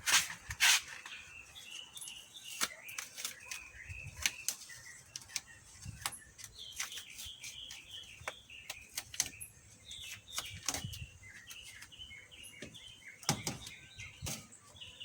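Small birds chirping over and over, with frequent sharp clicks and knocks from hands working on a car door, the loudest just at the start and again near the end.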